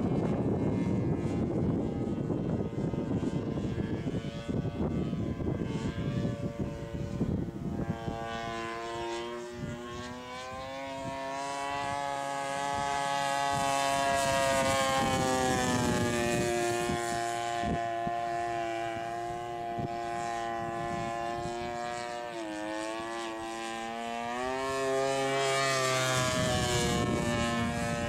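Two-stroke chainsaw engine turning the propeller of a small aircraft in flight. It sounds rough and noisy for the first several seconds and again at the very end, and between those it runs as a steady pitched drone. About three quarters of the way through, the pitch dips and then climbs back up.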